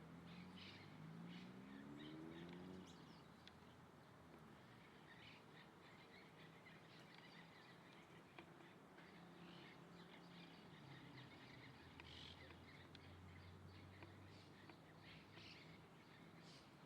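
Faint, scattered chirps of small birds, short calls coming irregularly. A low rising drone in the first few seconds and a low steady hum later sit underneath.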